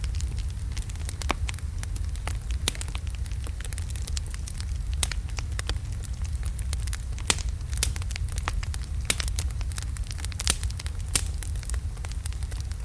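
Wood fire of large burning logs crackling, with irregular sharp pops and snaps several times a second over a steady low rumble of the flames.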